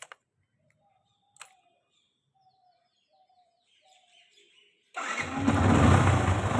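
Two sharp clicks, then faint bird chirps, then about five seconds in the Yamaha FZ-S's engine suddenly catches and runs steadily. It is starting on choke with the fuel tap shut after refusing to start, having flooded with fuel.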